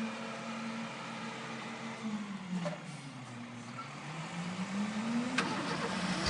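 Vehicle engine running, its pitch dropping about two seconds in and then rising again as if easing off and revving back up, with a couple of light ticks.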